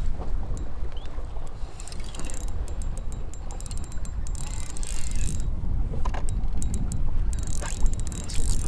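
Fishing reel being cranked in spells, its gears ticking rapidly, over a steady low rumble of wind on the microphone and water around the kayak.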